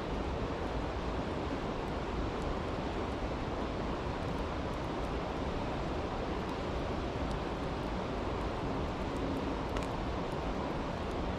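Steady rushing of a flowing creek, with a few faint, sharp crackles of a campfire here and there.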